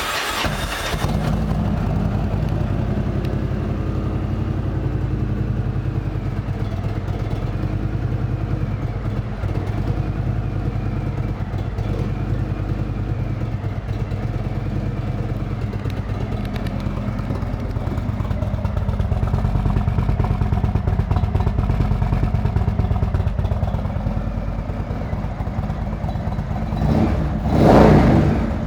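2016 Indian Roadmaster's Thunder Stroke 111 V-twin, running through twin Vance & Hines chrome pipes, idling steadily after a fresh start. It is revved once briefly near the end.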